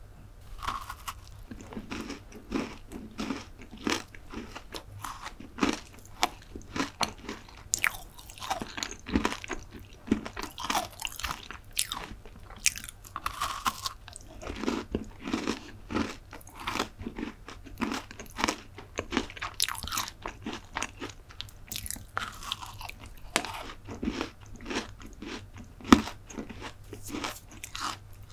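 Close-miked biting and chewing of an Oreo-topped mint chocolate dessert bar: many sharp crunches, several a second, from the cookie layers as it is chewed.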